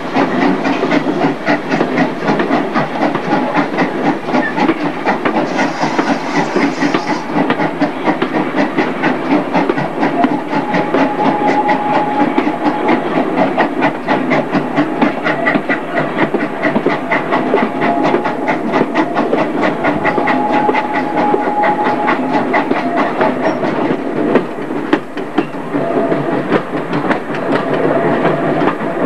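Train coaches running along the track, a steady rattling rumble with quick rapid clicking from the wheels and rails, heard through an open carriage window while a second train's coaches pass close alongside. A brief hiss comes about six seconds in.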